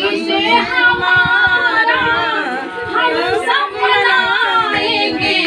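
A woman singing a Hindi folk-style birthday song, drawing out long melodic lines that glide up and down in pitch.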